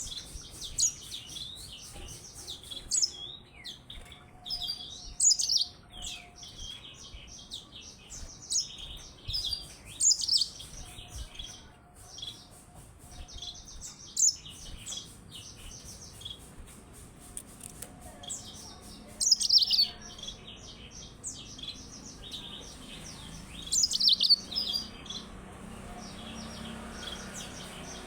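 Yellow-fronted canary singing: a long run of fast, high twittering phrases, with several louder bursts along the way.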